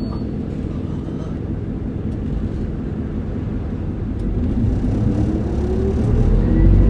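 Running sound of a Hino Blue Ribbon 2DG-LV290N2 city bus heard inside the cabin: the four-cylinder turbodiesel drones steadily, then rises in pitch and grows louder over the last couple of seconds as the bus accelerates.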